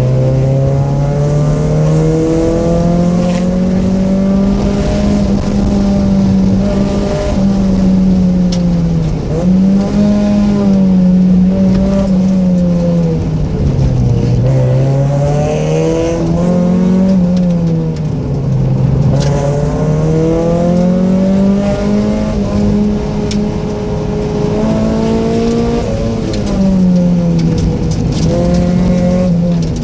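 Mazda Miata's 1.6-litre four-cylinder engine, with aftermarket headers and intake, being driven hard. The revs climb and fall again and again, with sharp drops about nine, fourteen and nineteen seconds in.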